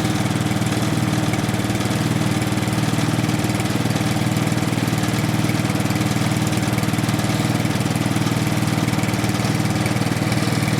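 Power First 6.5 hp, 208 cc single-cylinder engine on a snowblower, running steadily at a constant speed after warming up.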